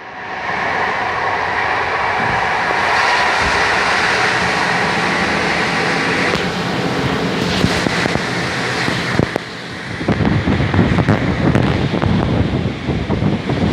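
Passenger train running, heard from the carriage window: steady wheel-on-rail noise with a whine. About ten seconds in it changes to a louder, rougher low rumble with wind on the microphone.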